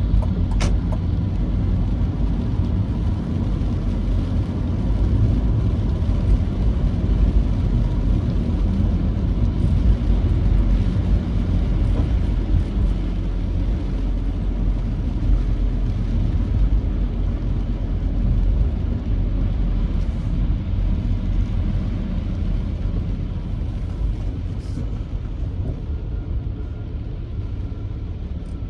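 Road vehicle driving on a rain-wet road: a steady low rumble of engine and tyre noise, with a couple of faint ticks just after the start.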